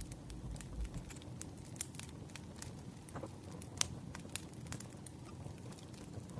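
Wood fire crackling, with irregular sharp pops and snaps over a low steady rumble of flames.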